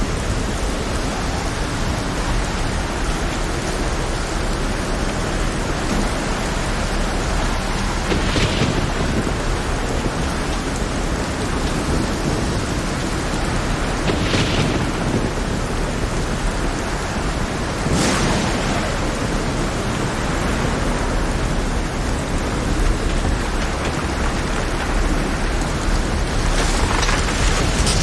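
Heavy rain falling in a steady, loud hiss, with four sharp crashes standing out from it about 8, 14, 18 and 27 seconds in.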